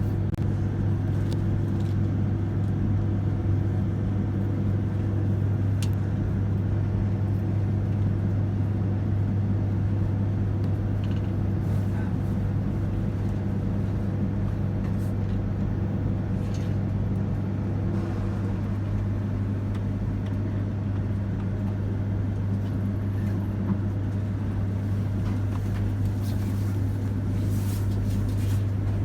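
Steady low hum of an E3-series Shinkansen train at the platform, with a few faint clicks.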